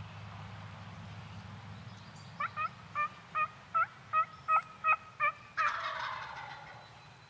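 A run of about nine evenly spaced turkey yelps, roughly three a second, followed about halfway through by a loud wild turkey gobble that trails off.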